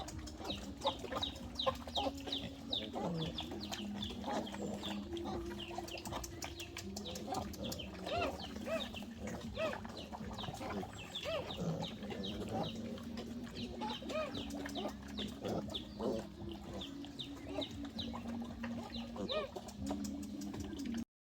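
A flock of chickens calling, with a constant stream of short high-pitched peeps and lower clucks, over a low steady drone.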